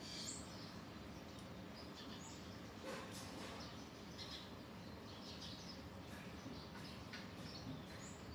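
Faint steady background noise with small birds chirping now and then in short, high notes. A soft tap about three seconds in.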